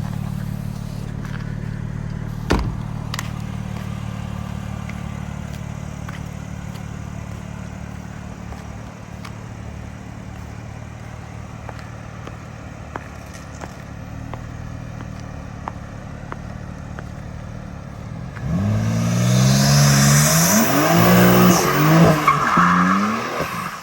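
BMW G80 M3's twin-turbo inline-six running low and steady for most of the time, with a single thump a few seconds in. About 18 seconds in it revs hard, its pitch rising and falling quickly for about five seconds as the tires squeal through a spin, then stops abruptly.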